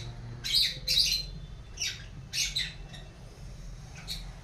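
Hand-reared baby lovebird giving short, high-pitched squawking calls, a few in quick pairs with gaps between, about half a second, a second, two seconds and four seconds in.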